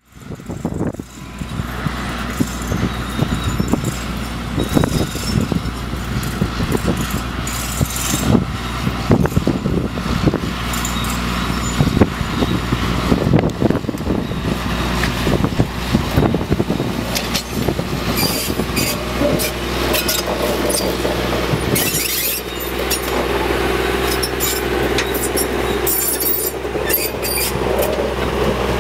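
Freight train moving: a steady low rumble with frequent knocks and rattles, which thin out after about twenty seconds as a steadier hum takes over.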